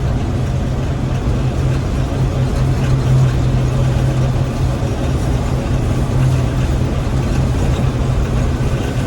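Gleaner M3 combine running steadily, a constant engine drone with a strong low hum under the noise of the machine.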